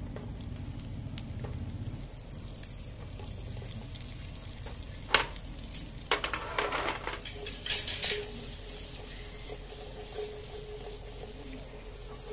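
Sliced garlic and onion rings sizzling in oil in a grill pan, with a sharp knock about five seconds in and a spell of clatter from the pan and the food being handled a second or so later.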